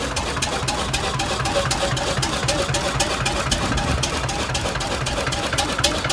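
An engine running steadily at idle, with a regular beat of about five strokes a second.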